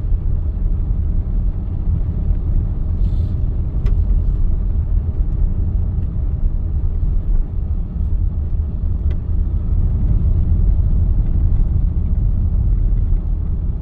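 Steady low rumble of a moving car heard from inside the cabin: engine and tyre road noise, with a faint tick about four seconds in and again about nine seconds in.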